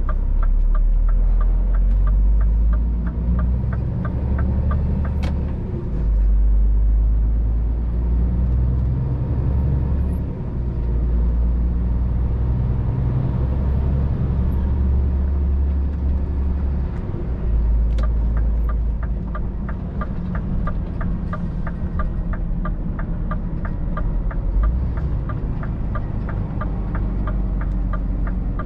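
Scania R500 truck's diesel engine heard from inside the cab while driving: a low drone that steps up and down in level. A regular ticking, about three a second, runs through the first five seconds and again for the last ten seconds.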